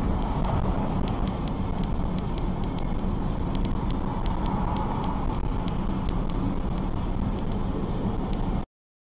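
Steady vehicle and road noise, heaviest in the low end, with scattered faint ticks. It starts and cuts off abruptly.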